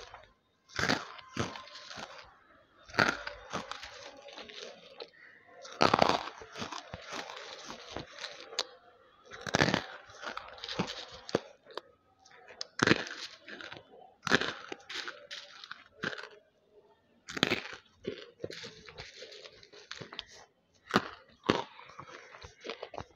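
Banslochan (bamboo silica, chalky crystalline lumps) being bitten and chewed close to a headset microphone: sharp crunches every few seconds, with quieter crackly chewing between.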